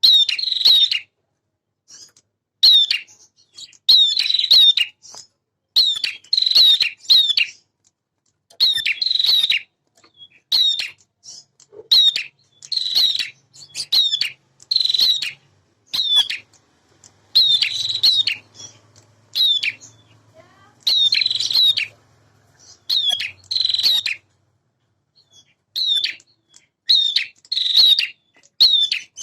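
Male prenjak (prinia) singing: short, loud bursts of rapid, high chattering notes, repeated every second or two with brief pauses between phrases. This is the energetic, full-voiced song known as gacor.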